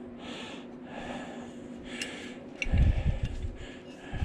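A man breathing audibly close to the microphone, with soft puffs of breath, over a faint steady hum. About three seconds in there is a short burst of muffled low thumps, and a single sharp knock comes right at the end.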